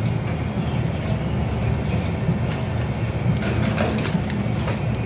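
A steady low hum with faint short high-pitched peeps about every second or two, typical of a hatching conure chick, and scattered small clicks.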